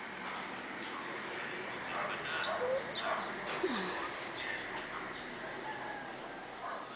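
Birds calling outdoors: many short chirps, with a lower falling call near the middle.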